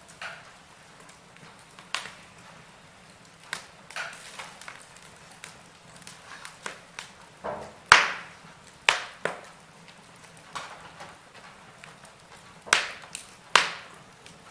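Wood fire crackling in a fireplace: irregular sharp pops and snaps over a faint hiss, the loudest about eight seconds in and a pair near the end.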